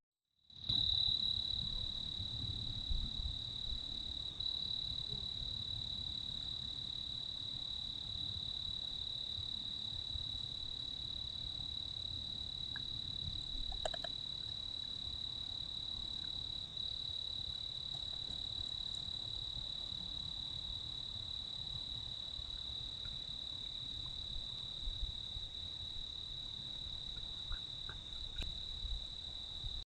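A cricket-like insect trilling on one continuous high note, with low wind rumble on the microphone and a few faint small clicks.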